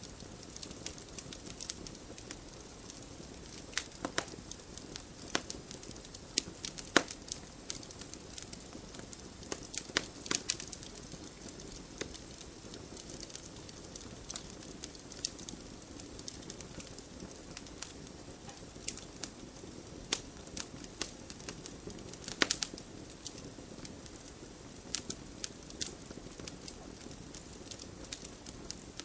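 Wood fire burning in a fireplace, crackling with irregular sharp pops over a soft steady hiss. The loudest pops come about seven seconds in and about twenty-two seconds in.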